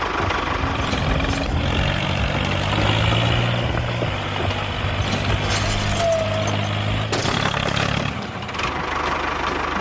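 Engine running steadily, a low pitched drone that is strongest from about one and a half seconds in to about eight seconds in.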